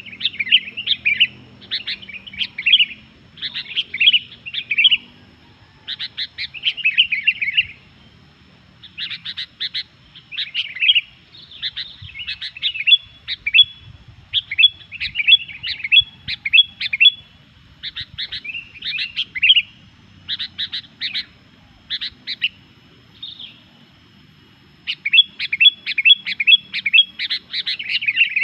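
Sooty-headed bulbul (kutilang) singing vigorously: phrase after phrase of quick, chirpy notes, each phrase a second or two long with short breaks between, and a longer pause about three-quarters of the way through.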